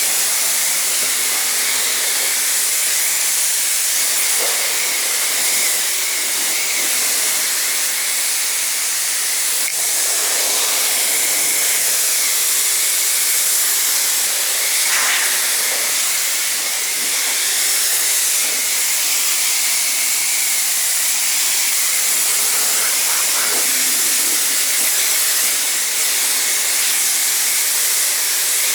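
Pressure washer spraying water, rinsing a car: a steady, loud hiss of the jet, with the machine's faint steady hum underneath.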